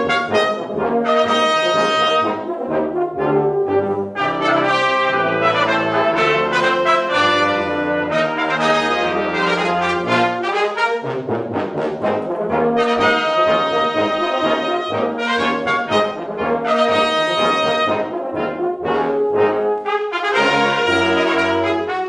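Brass ensemble playing a piece live, trumpets and trombones sounding full chords over a moving line of low brass notes.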